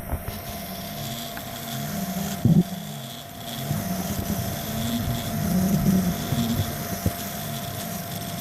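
OpenBeam Kossel Pro delta 3D printer's stepper motors whining in rising and falling pitch glides as the print head moves back and forth, over a steady hum. A brief loud knock about two and a half seconds in.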